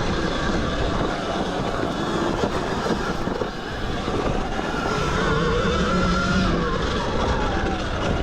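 Zero XB electric dirt bike under way, its motor whine rising and falling with the throttle and swelling again about five seconds in, over a heavy, steady rumble of wind and riding noise.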